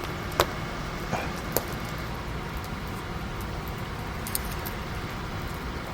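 A few light, sharp clinks, such as utensils against dishes during a meal, over a steady background hiss.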